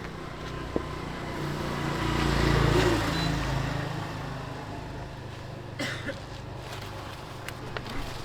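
A motor vehicle's engine passing close by, growing loudest about two to three seconds in and then fading, with a few short sharp knocks later on.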